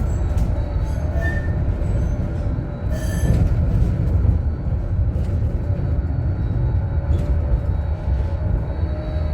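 Tram running on its rails: a steady low rumble of wheels on track, with faint wheel squeal and a few clicks.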